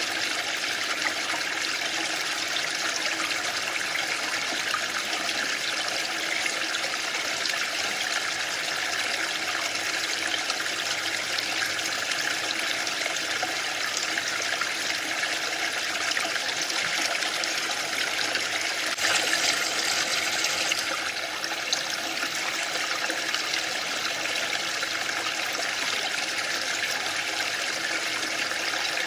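Waterfall rushing, a steady even roar of falling water that swells slightly brighter for a couple of seconds about two-thirds of the way through.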